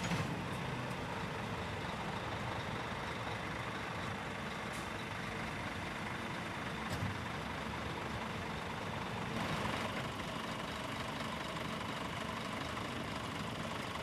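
Scania R490 truck's diesel engine idling steadily, with a few faint clicks.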